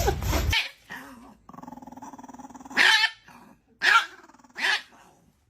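A dog growling low, then barking three times.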